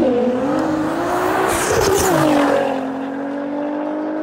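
Race car engine sound effect: the engine revs with its pitch rising and falling, a hissing surge comes about a second and a half in, and then it settles to a steady, lower drone.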